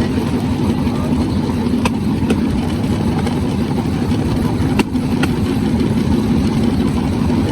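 Bamboo train's small engine running steadily, with a few sharp clicks over it.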